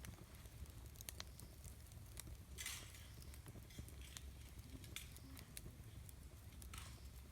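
Wood campfire crackling quietly, with scattered sharp pops and two brief hisses, over a low steady rumble.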